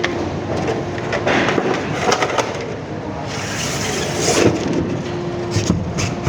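Large prismatic battery cells being slid and set into a battery case: scraping, with scattered knocks and clicks as they bump into place.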